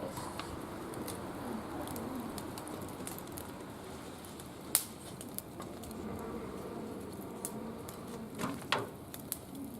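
Wood fire crackling in a barbecue grill, with scattered small pops and one sharp pop about five seconds in. A bird calls faintly in the background.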